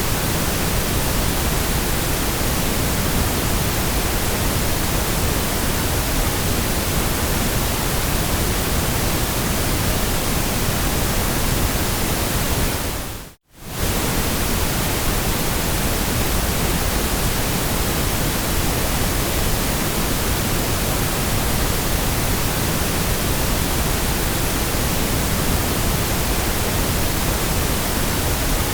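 Steady white noise, an even hiss across all pitches. About halfway through it fades out to near silence for a moment and comes straight back.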